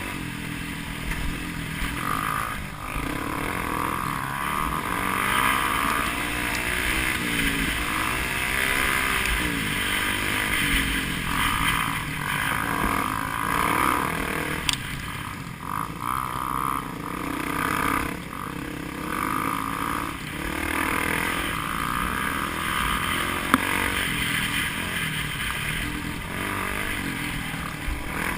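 Enduro motorcycle engine revving up and down unevenly, its pitch rising and falling again and again.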